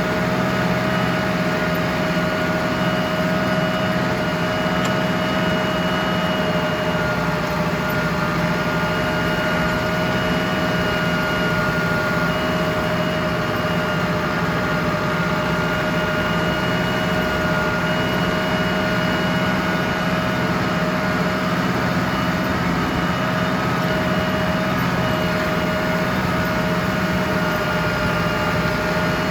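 Ford 6610 tractor's four-cylinder diesel engine running steadily under a constant throttle, with a steady high whine over the engine hum.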